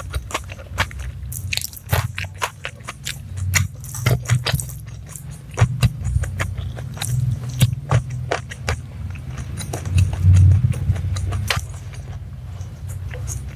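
Close-miked chewing and biting of a mouthful of rice and raw vegetables, with many short, sharp, wet mouth clicks and crunches.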